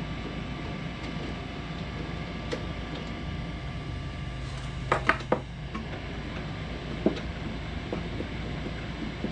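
Steady whir of an Ender 3 3D printer's cooling fans, with a few light clicks and knocks from the bed being handled during levelling, the loudest cluster about five seconds in.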